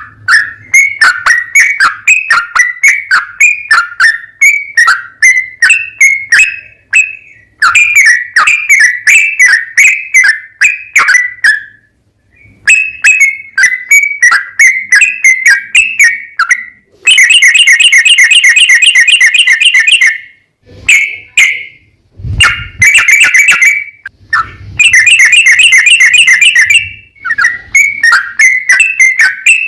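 Yellow-vented bulbul (trucukan) singing: phrases of quick, bubbly whistled notes, broken twice past the middle by long, very rapid trills, the bird's long 'ropel'.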